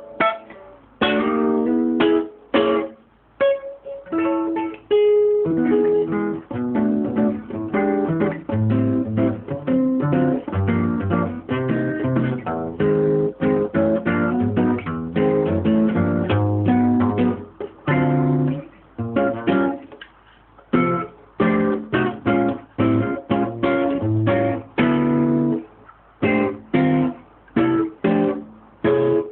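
Acoustic guitar playing, a run of plucked notes and strummed chords with short pauses between phrases.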